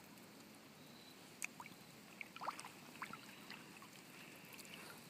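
Faint drips and trickles of water off a canoe paddle, with a few short ticks scattered through.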